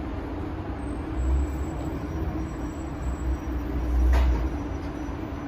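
A train running at a station platform: a steady low rumble and hum that swells twice, with a brief sharp noise at the second swell.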